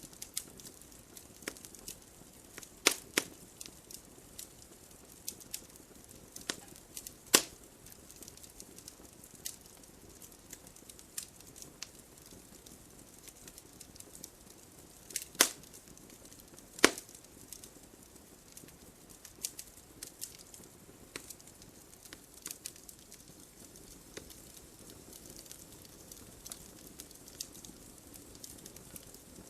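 Wood fire in a fireplace crackling: irregular sharp pops and snaps from the burning logs, a few louder than the rest, over a faint hiss.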